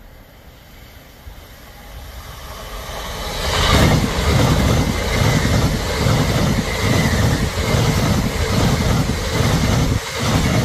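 LNER Azuma passenger train approaching and passing close by at speed. The wheels set up a rhythmic clatter on the rails, with a brief lull near the end as the gap between two coupled sets goes by.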